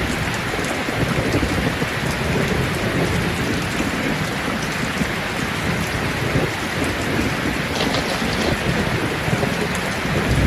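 Steady rain falling on leaves: a dense, even hiss with scattered drop ticks and a low rumble underneath.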